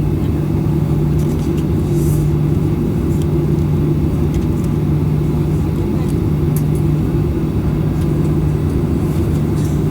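Steady cabin hum inside a Boeing 737-800 on the ground before takeoff: a constant low drone over a dense low rumble, with a few faint clicks.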